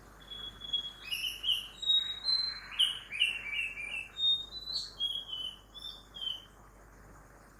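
Birdsong: a varied run of clear whistled notes and quick chirps, lasting about six seconds and stopping about a second before the end. Behind it lies a faint steady hum of morning traffic.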